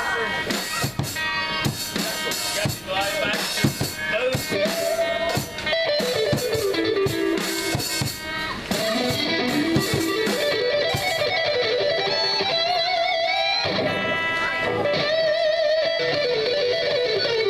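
Live rock band playing amplified: drum hits through the first several seconds, then an electric guitar line of held, bent notes with vibrato over sustained chords.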